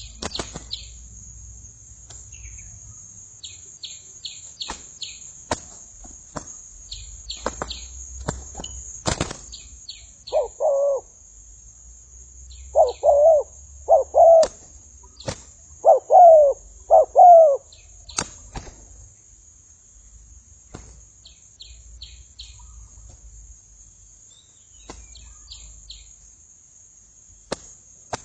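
Spotted doves cooing: about five loud cooing phrases between roughly ten and eighteen seconds in. Short bursts of high chirps from small birds, scattered sharp clicks and a steady high-pitched hiss run beneath them.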